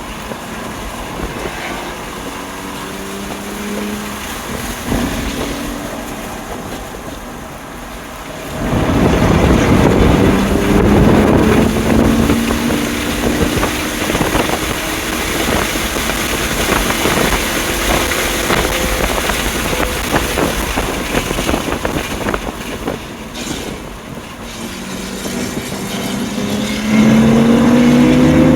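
2020 BMW M2 Competition's twin-turbo inline-six driven hard on track. It runs quieter at first, then about a third of the way in the engine note jumps up under full throttle and climbs in pitch in steps through upshifts. It eases off for a moment and pulls hard again near the end, with wind noise throughout.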